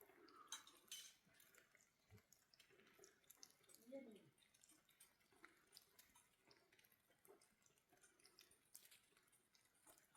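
Near silence with faint scattered clicks and small ticks, and a brief faint sliding sound about four seconds in.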